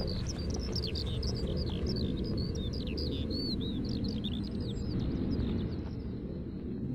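Many small birds chirping rapidly at once, over a low steady rumble; the chirping thins out and stops near the end.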